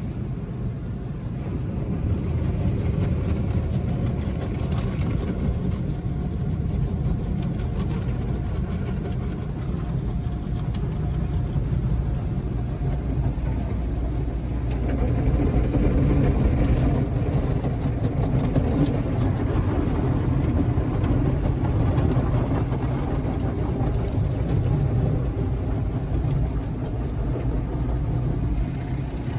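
Steady low rumble of a car, heard from inside it.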